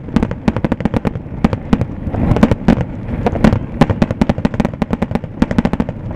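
Aerial fireworks shells bursting in a rapid, irregular barrage, several sharp bangs a second overlapping one another: the finale of a fireworks display.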